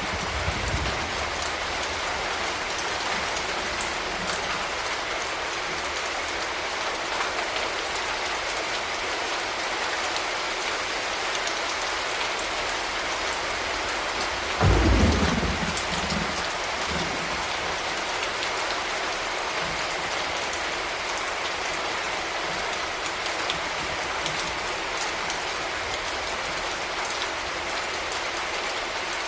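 Steady rain falling on hard surfaces, with a sudden low boom of thunder about halfway through that fades over a second or two and is the loudest thing here. A weaker low rumble comes just after the start.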